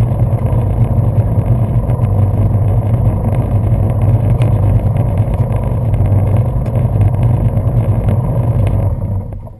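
1995 Sea-Doo Speedster jet boat's twin two-stroke engines running steadily at speed, with water rushing against the hull, then falling away suddenly near the end.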